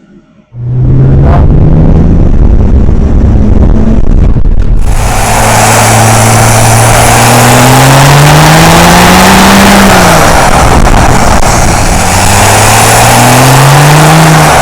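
BMW E46 330Cd's M57 straight-six turbodiesel running loud through a 3.5-inch straight-through exhaust as the car accelerates. A loud rushing noise joins about five seconds in, and the engine note climbs in pitch, drops about ten seconds in at a gear change, then climbs again.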